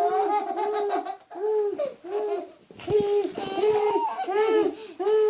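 Young child laughing and babbling in a string of repeated high-pitched sounds.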